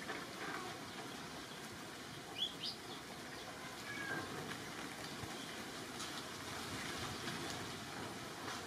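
Outdoor background hiss with a few short, high, rising bird chirps, two of them close together about two and a half seconds in and fainter ones a little after.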